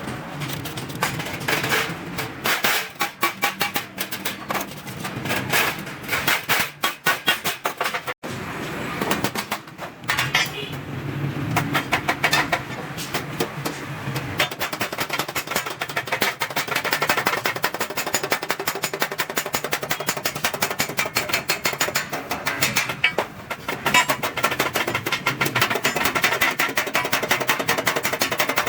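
Rapid, repeated sharp metal impacts as stainless steel sheet is worked by hand, many strikes a second, broken briefly about eight seconds in.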